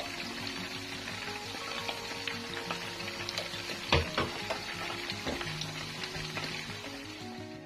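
Tempeh and vegetables sizzling in a stone-coated wok on a gas burner, then stirred with a spatula, with a couple of sharp knocks about four seconds in. Background music with held notes plays along.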